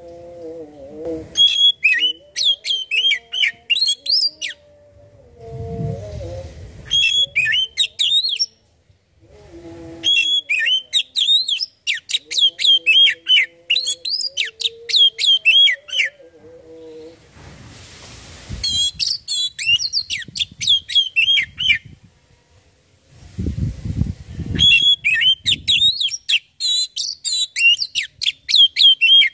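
Oriental magpie-robin (kacer) singing in five bursts of fast, varied whistled phrases, each a few seconds long with short pauses between. A lower held tone comes and goes beneath the song, and there are a few dull thumps.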